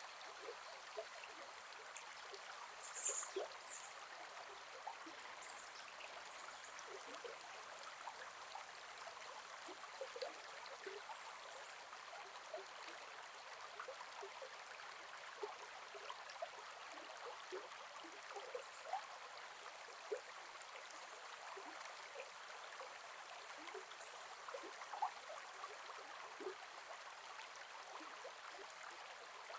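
Gentle forest river flowing steadily: a soft, even rush of water with many small bubbling plops. A short high-pitched chirp sounds about three seconds in.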